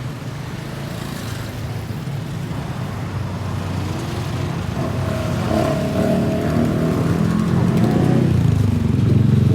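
Maeklong line diesel railcar approaching, its low engine rumble growing steadily louder.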